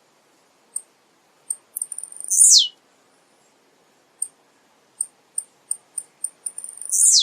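Male blue-black grassquit (tiziu) singing: a sharp, buzzy note sweeping steeply down in pitch about two and a half seconds in and again near the end, with short high chips scattered between.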